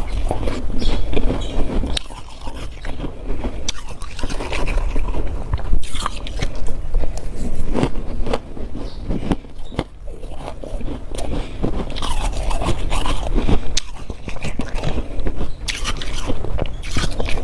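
Close, crisp crunching of humidifier-grown freezer frost being bitten and chewed, with scraping, in a dense, irregular crackle of small crunches.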